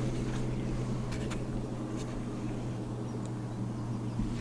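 A steady low mechanical hum at a constant pitch, with a few faint ticks.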